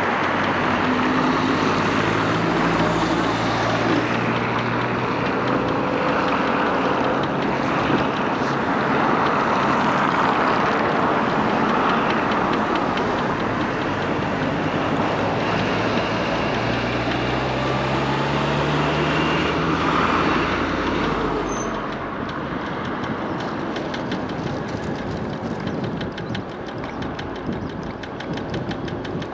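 Wind and road noise while riding an electric scooter in city traffic, with a passing vehicle's engine rising in pitch about two-thirds of the way through. It quietens near the end, where a fast, even ticking comes in.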